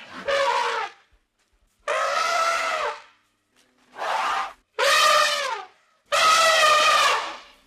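A young farm animal calling five times, each call loud and pitched, about one second long, with short silent pauses between.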